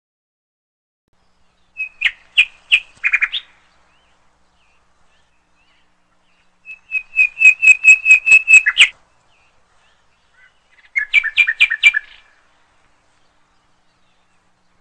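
A songbird singing three short phrases of quick repeated chirps, each lasting one to two seconds, with silence between them.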